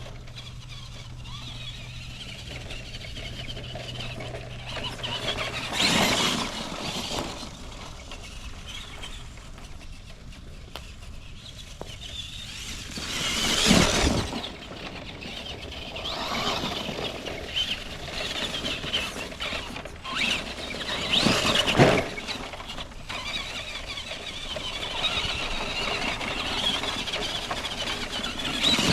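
Electric 1:10 RC monster truck's brushed motor and gear drive whining as it is driven, with three louder bursts of throttle.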